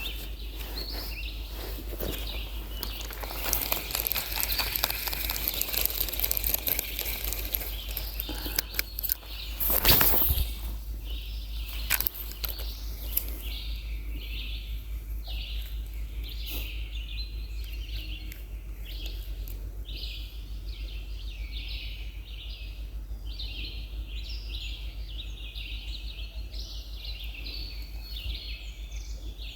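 Outdoor riverside ambience: a steady low hum with crackling noise, a loud brief burst about ten seconds in, then a long run of high chirps repeating about once or twice a second.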